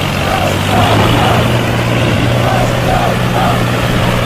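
A steady engine hum running at an even pitch, with a few faint voice-like sounds over it.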